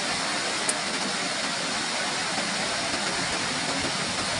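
Waterfall water falling and flowing in a steady, even rush, with one brief tick under a second in.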